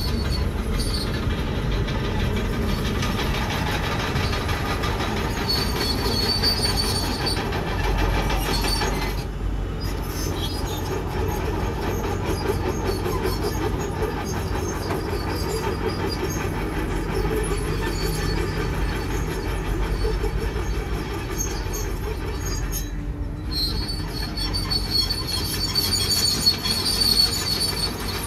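Komatsu crawler bulldozer working, its engine running under load with the steel tracks squealing and clanking. The high track squeal comes and goes.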